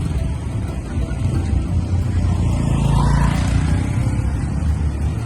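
Street traffic rumbling, with a motor vehicle passing close and loudest about three seconds in.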